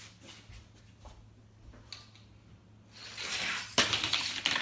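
Toy bulldozer running down a toy-car track with a fast rattle, then a sharp clack as it lands the jump, about a second before the end, with more clattering after it.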